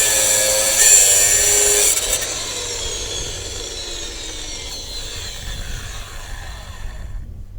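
Angle grinder cutting through welded steel, released about two seconds in; its whine then falls steadily as the disc spins down.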